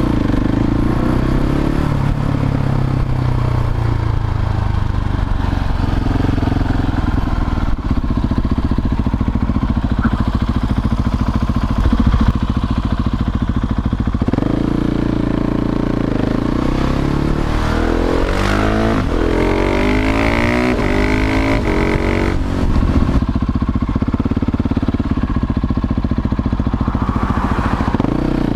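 Husqvarna 701 single-cylinder motorcycle engine through a Leo Vince slip-on exhaust, running under way with the revs rising and falling through the gears.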